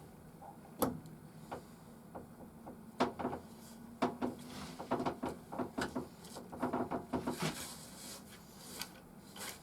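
Parts of an antique-style grinder kit being fitted by hand onto its turned chestnut body: irregular clicks, taps and short rubbing scrapes of metal and wood being handled and pressed together.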